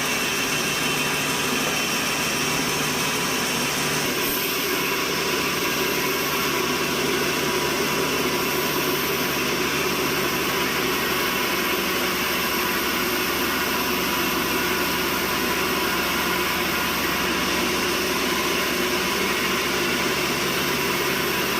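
Sawmill machinery running steadily: an even, continuous mechanical noise with several fine steady whining tones.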